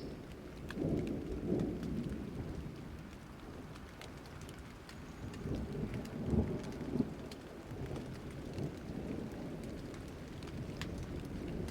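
Thunderstorm: steady rain with fine drop ticks, and low thunder rumbles that roll in and fade. The sharpest peak comes about six seconds in, and thunder builds again near the end.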